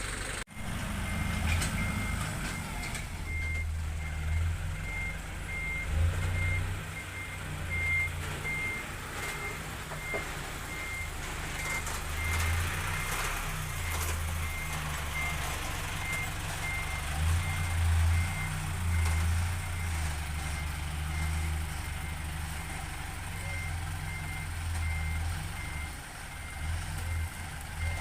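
Reversing alarm on heavy earthmoving machinery, beeping in short even pulses, over the low rumble of a diesel engine that rises and eases with the throttle.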